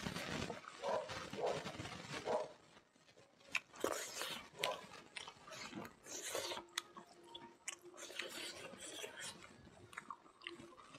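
Close-up eating sounds: wet chewing and lip smacking on a handful of smoked pork and rice, in regular pulses at first, then scattered sharp smacks and clicks.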